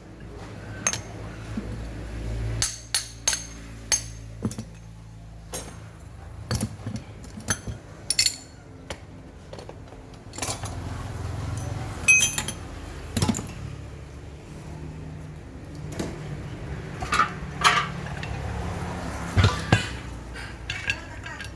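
Metal parts and hand tools clinking and knocking against each other, in irregular sharp taps over a low steady hum.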